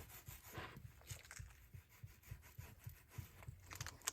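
Faint, irregular rubbing strokes of a brush working resin into fiberglass cloth on a drum shell, wetting out the white, dry patches.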